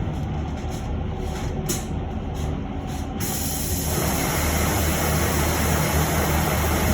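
Inside an electric bus: a low hum with a few faint clicks, then about three seconds in a steady hiss starts and carries on.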